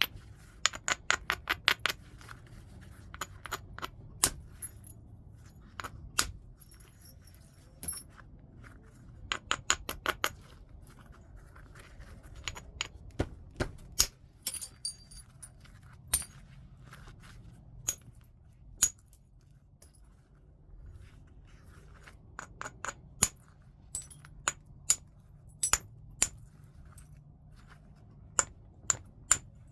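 Heat-treated Burlington chert being knapped: sharp, glassy clicks of a tool on the stone, some in quick runs of several strikes or scrapes and others as single strikes.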